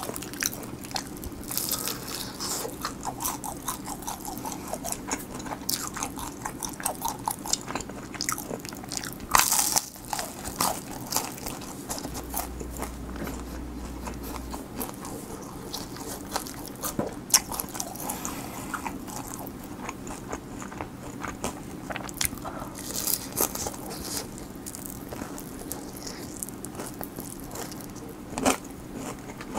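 Crunchy bites and chewing of crispy fried chicken, a close run of irregular crackling crunches with a few louder bites.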